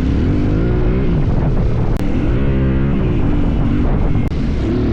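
Motorcycle engine running under load off-road, its pitch rising and falling several times as the revs change.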